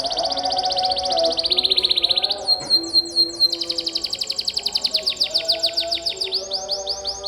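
Domestic canary singing long rapid trills (rolls) of fast repeated high notes, changing briefly to a slower phrase of falling notes about two and a half seconds in, then rolling again.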